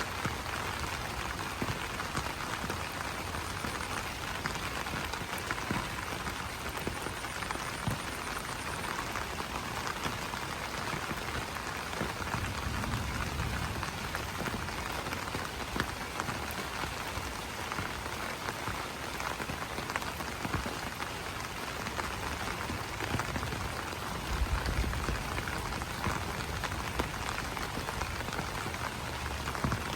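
Steady rain falling on broad banana leaves: an even hiss dotted with many distinct drop ticks. A low rumble swells briefly twice, near the middle and again near the end.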